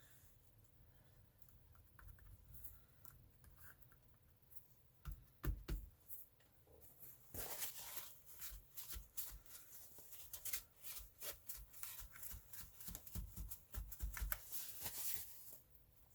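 Paper and cardstock being handled on a craft table: rustling, sliding and light tapping, busier in the second half, with a few soft thumps.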